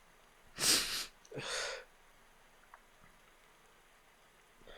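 A man sniffs sharply through his nose, then lets out a breath, tearful sounds from someone holding back crying. A softer breath comes near the end.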